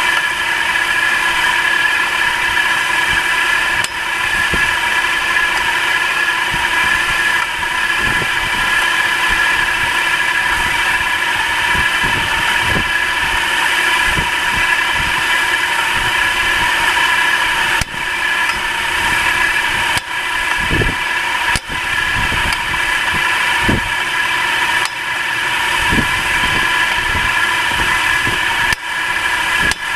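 Nissan March K13 engine idling, with a steady high whine over it and irregular short low thumps, more frequent in the second half.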